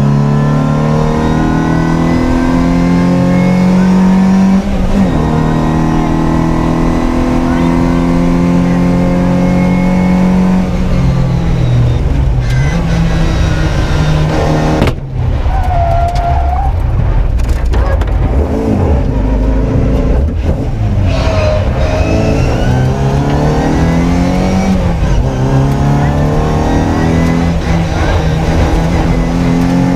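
Classic Mini rally car's engine under hard acceleration on a special stage. Its pitch climbs and drops again and again with gear changes and braking, with a brief cut in the sound about fifteen seconds in.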